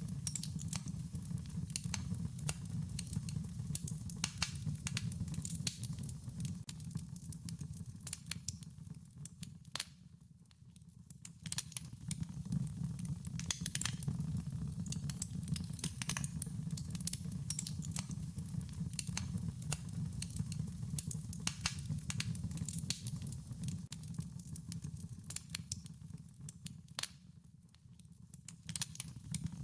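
Wood fire crackling with frequent irregular sharp pops over a low steady rumble. The sound dips briefly twice, about ten seconds in and near the end.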